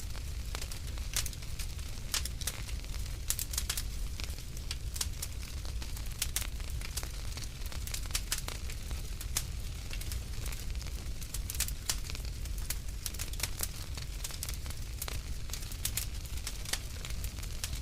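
Wood fire crackling in a fireplace: frequent irregular sharp pops and snaps over a low, steady rumble.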